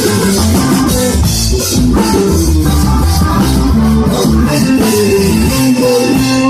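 Live band music with drums, bass and guitar playing steadily; a different, guitar-led piece cuts in near the end.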